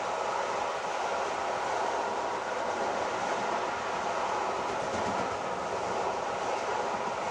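A train running, a steady rushing noise that holds even throughout.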